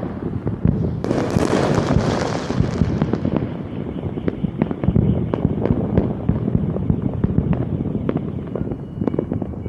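Fireworks going off in a dense, rapid run of bangs and crackles, with a loud hissing crackle about a second in that fades out over the next two seconds.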